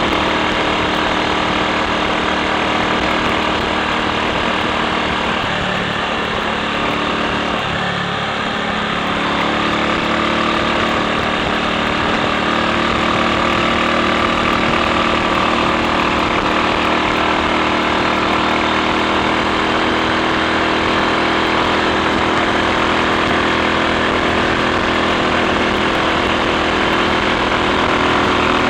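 Triumph Sports Cub's single-cylinder four-stroke engine running steadily under way. Its note dips and changes pitch about six to ten seconds in, then settles again.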